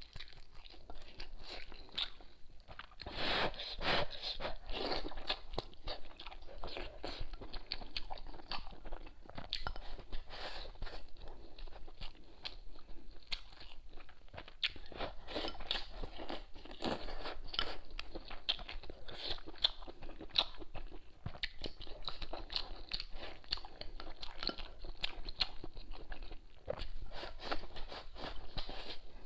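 Close-miked chewing and biting of hotpot food, soaked bean curd skin and rice, heard as a run of many short, irregular mouth clicks; the loudest stretch comes about three to four seconds in.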